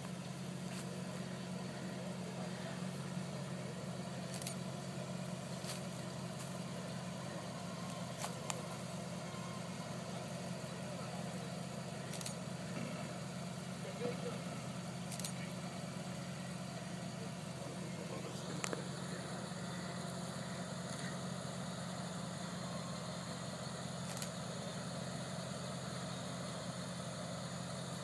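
Four-wheel-drive engine idling steadily as the vehicle creeps down a steep rutted drop-off, with a few sharp clicks scattered through.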